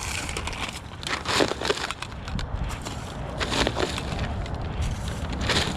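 Dry twigs and undergrowth crackling and snapping underfoot in about four short bursts, roughly two seconds apart, over a low steady rumble.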